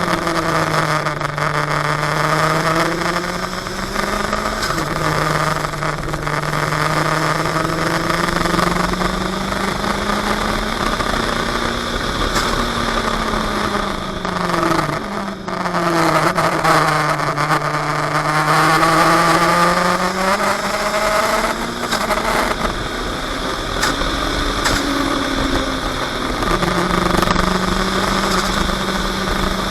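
A 400 hp open-wheel sports car's engine heard from the cockpit at speed. The revs rise and fall through the lap, with sudden jumps in pitch at gear changes, over steady wind and road noise.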